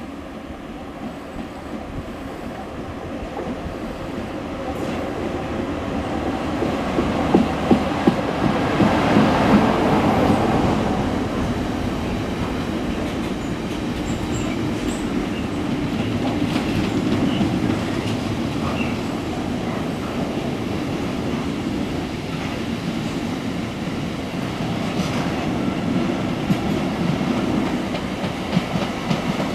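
Freight train passing close below, its wagons loaded with shipping containers. The locomotive's pass swells to its loudest about eight to ten seconds in. After that comes a steady rumble of wagons rolling by, with wheels clicking on the rails.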